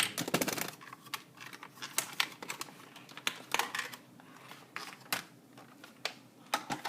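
Irregular clicks, taps and rustles of a toy RC car being handled and moved about.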